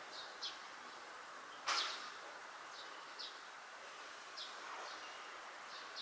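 Small birds chirping in the background, short high chirps often in pairs, every half second or so, over a steady outdoor hiss. One sharp, louder noise comes about two seconds in.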